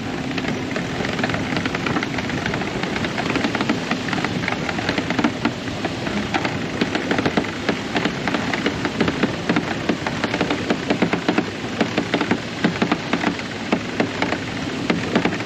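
Dense, irregular crackling and flapping of a sail and its gear as the sail is hoisted, over the steady drone of the boat's motor.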